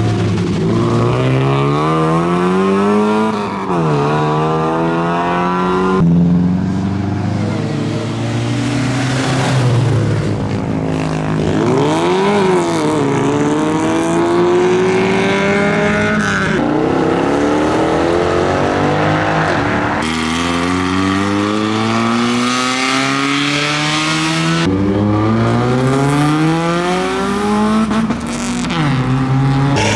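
Modified cars' engines revving hard as they accelerate away one after another, each rising in pitch and dropping back at the gear changes.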